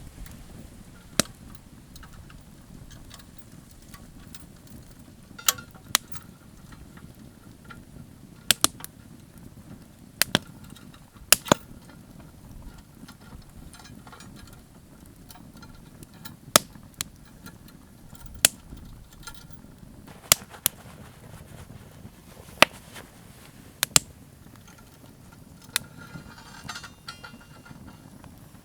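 Wood campfire crackling, with sharp, irregular pops every second or two over a low steady rumble of the burning fire.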